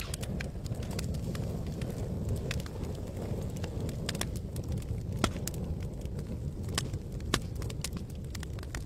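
Wood campfire crackling, with irregular sharp pops and snaps over a steady low rumble of burning; a few louder pops stand out, around five seconds in and again near seven seconds.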